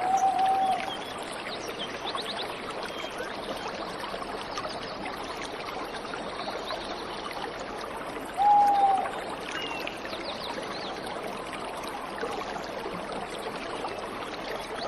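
Steady rush of a waterfall or stream. Over it a bird gives a short, low, clear call twice, once at the start and louder about eight and a half seconds in, with faint high chirps from other birds.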